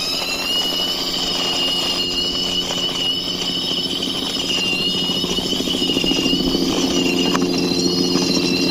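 Toy police helicopter whirring with a steady high whine as it is pushed along by hand.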